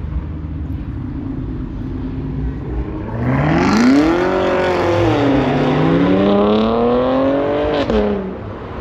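A car engine idling low, then revving hard from about three seconds in. Its pitch climbs steeply, dips once and climbs again for several seconds before the throttle is let off near the end.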